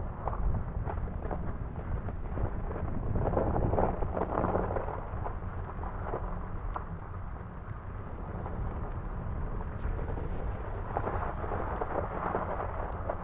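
Vehicle driving through deep snow: a steady low rumble with uneven knocks and crunching, and louder stretches a few seconds in and near the end.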